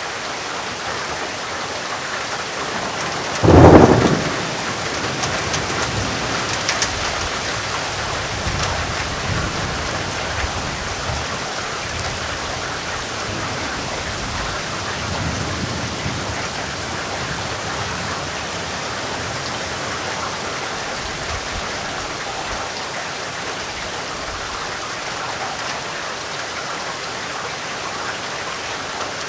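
Steady rain falling throughout, with a sharp thunderclap about three and a half seconds in, followed by a low rumble that rolls on for over ten seconds.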